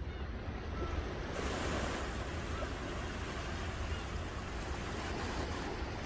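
Ocean waves breaking on a shore: a steady rush of surf with a deep low rumble, swelling brighter about a second in as a wave washes in.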